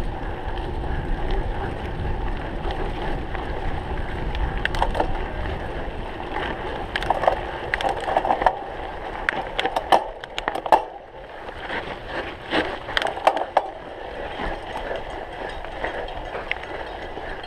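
Cyclocross bike ridden over a rough course: wind on the microphone and tyre rumble, with a run of sharp clicks and rattles from the bike in the middle.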